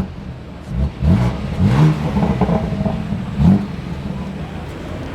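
A car engine revved in several quick blips, each a short rising note, idling between them.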